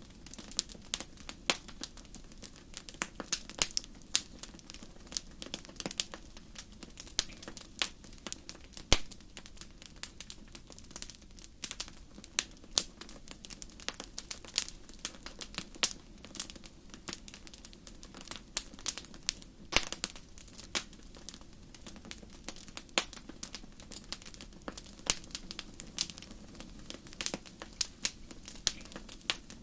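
Wood campfire crackling: irregular sharp pops and snaps, several a second, some much louder than others, over a faint steady low rush.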